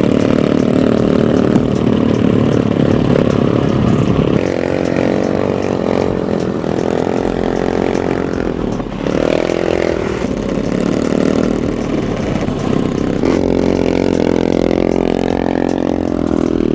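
A motor vehicle engine running throughout, its pitch rising and falling several times as it revs and changes speed.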